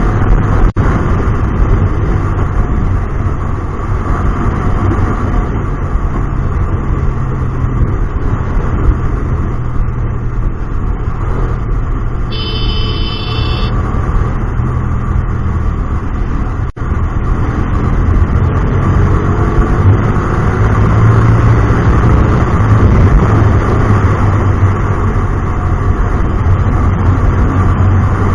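Hyosung GT250R's 250 cc V-twin, fitted with an aftermarket Solfer exhaust, running steadily while the bike is ridden through traffic. The engine note gets somewhat louder about twenty seconds in.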